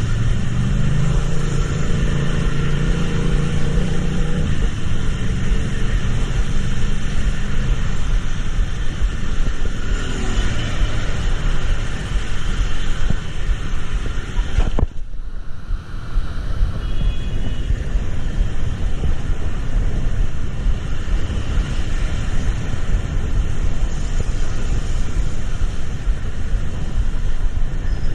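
Steady vehicle rumble and road noise, with a pitched engine hum in the first few seconds and a brief sharp drop with a click about halfway through.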